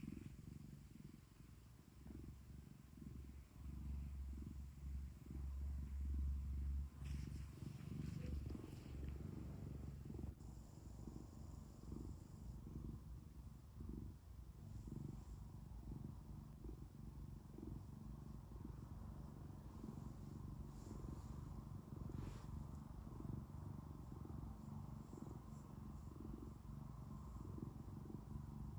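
Domestic cat purring steadily, a low pulsing rumble close to the microphone, deeper and louder for a few seconds near the start.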